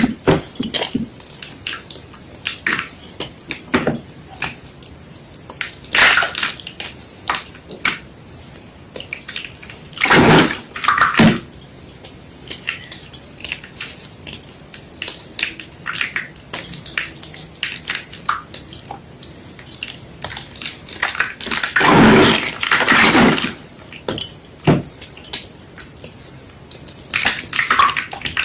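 Wet gym chalk being crushed and crumbled, a steady run of small crackles and crunches with water sounds, broken by a few louder, longer crunches.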